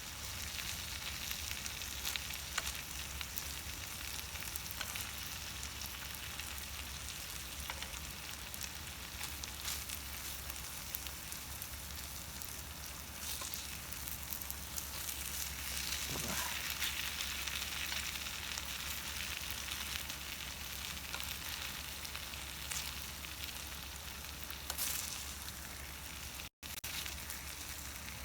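Food sizzling steadily on a hot iron griddle plate, with a few faint ticks. The sound cuts out for a moment near the end.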